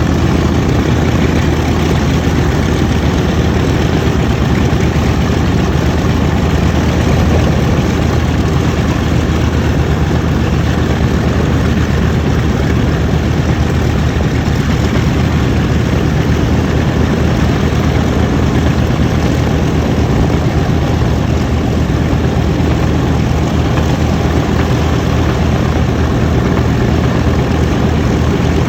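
B-25 Mitchell bomber's Wright R-2600 fourteen-cylinder radial engines running steadily at idle after start-up, propellers turning, with no change in speed.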